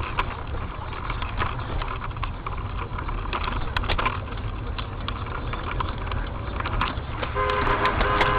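Steady rumble of a moving car and road traffic with scattered knocks, then a car horn starts blaring about seven seconds in and holds on.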